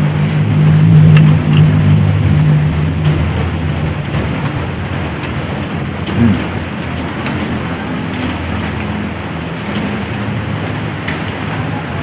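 Close-up chewing of raw pete (stink beans) with scattered crunchy clicks, over a steady rushing background noise. A low hum sounds over the first three seconds, then fades.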